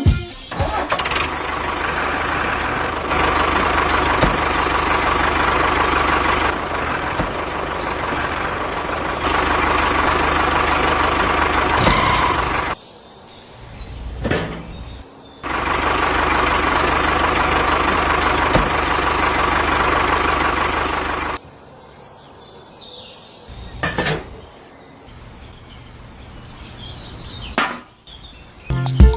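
A small motor, as on a DIY model truck, running with a steady whine over a noisy rattle in two long runs. The first lasts about twelve seconds, the second about six, and each starts and stops abruptly.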